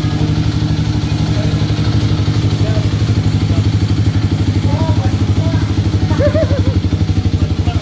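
Kawasaki D-Tracker 250's single-cylinder four-stroke engine idling steadily through an aftermarket MIVV exhaust, with an even, rapid exhaust pulse.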